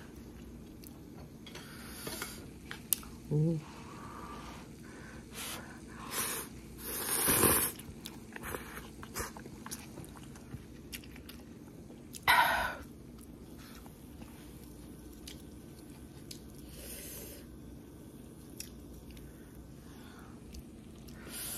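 A person chewing food close to the microphone, with wet mouth clicks and smacks. A few louder short bursts of eating noise come about seven and twelve seconds in, and there is a brief rising hum about three seconds in.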